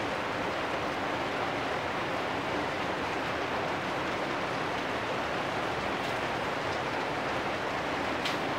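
Steady rain falling on corrugated metal roofs and a wet lane, an even unbroken hiss. One small sharp tick near the end.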